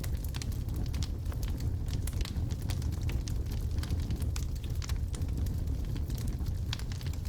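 Wood logs burning in a fireplace, crackling with many small irregular pops and snaps over a steady low rumble of the fire.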